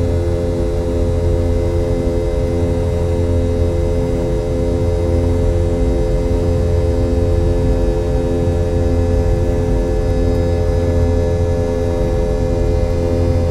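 Steady cabin noise of a Boeing 717 with its rear-mounted Rolls-Royce BR715 turbofans running: a loud, even hum with a few constant whining tones above it and a lower tone that pulses steadily, heard from inside the passenger cabin.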